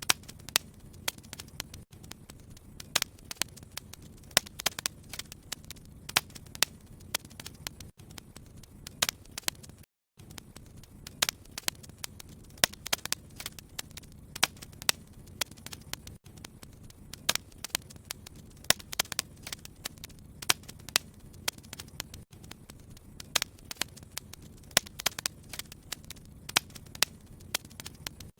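Fire burning in a fireplace, crackling and popping irregularly with many sharp snaps over a steady low hiss. The sound cuts out for a split second about ten seconds in.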